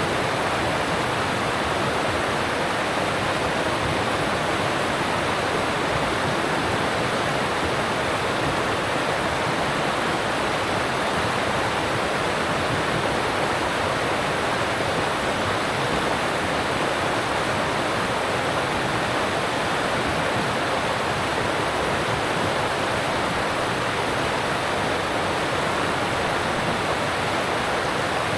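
Alpine stream rushing steadily over rocks: a continuous, even sound of water that does not change.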